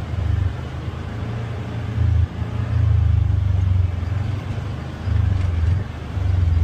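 Polaris Xpedition UTV engine running with a low rumble that swells and eases every second or so as it crawls over small rocks and erosion ruts.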